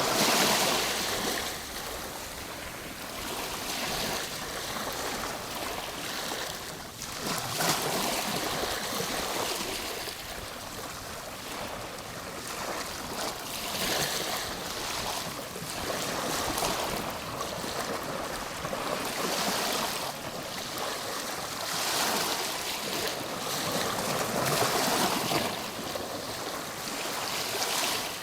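Ocean waves breaking and washing on a shore, a continuous surf rush that swells and fades every few seconds.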